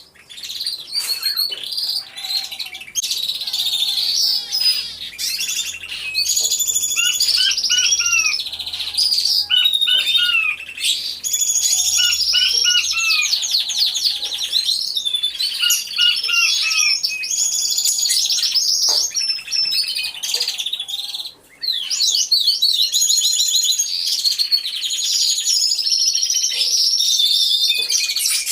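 Many domestic canaries in an aviary singing at once: overlapping songs of rapid trills and repeated chirping notes.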